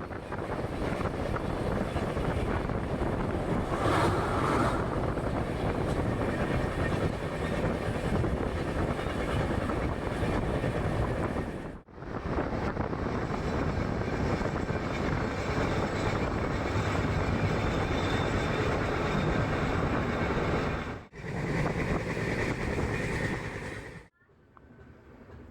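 Express passenger train running on the rails: a steady, loud rumble and rattle. It cuts out abruptly about halfway through and again near the end.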